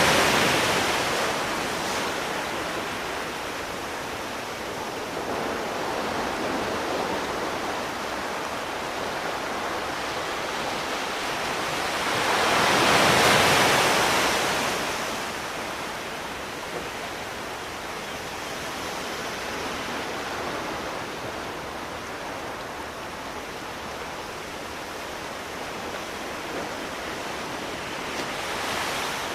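Sea waves washing onto a shore: one wave surges and breaks right at the start and another about thirteen seconds in, with a steady hiss of surf between.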